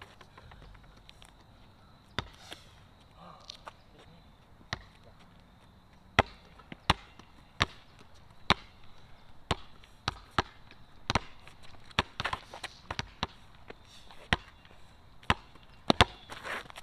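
Basketball bouncing on a hard court: a few scattered bounces, then steady dribbling of about one to one and a half bounces a second from about six seconds in.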